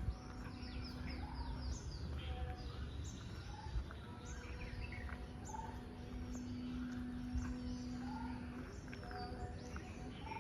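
Several songbirds chirping, with quick falling high chirps repeated every half second or so and a few lower whistled notes, over low outdoor rumble and a steady low hum.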